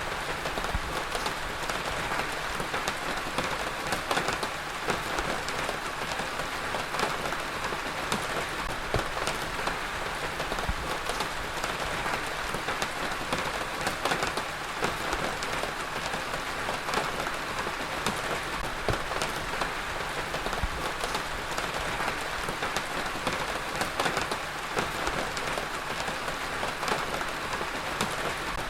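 Heavy rain falling steadily, a dense even hiss with many individual drops pattering.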